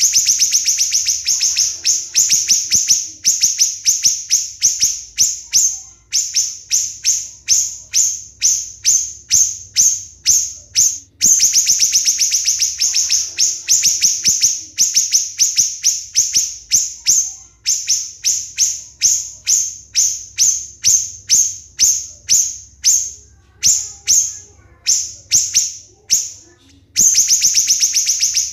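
Siri-siri bird singing: sharp, high-pitched notes repeated several times a second in tight series, with stretches of very rapid, closely packed notes near the start, in the middle and near the end.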